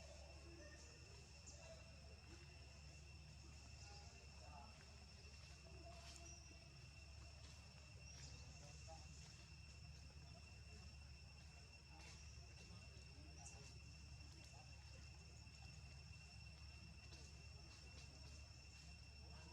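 Near silence with a faint, steady, high insect drone that holds one unbroken tone throughout, over a low background rumble.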